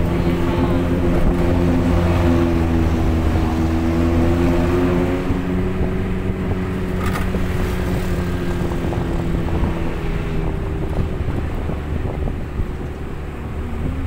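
Jeep engine running while the vehicle is under way, a steady hum whose pitch dips slightly about five seconds in and that eases off about ten seconds in.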